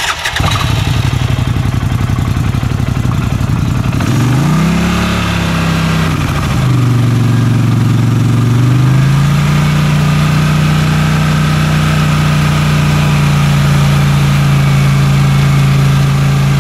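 Arctic Cat Wildcat 1000 H.O. side-by-side's engine starting up and running through its stock exhaust. It idles, is revved up and back down twice, about four and seven seconds in, then holds a steady, slightly raised speed.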